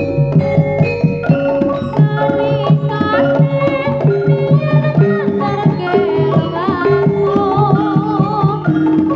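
Jaranan ensemble music: a busy, steady drum rhythm under a melody of held notes, with a wavering melody line coming in over it near the end.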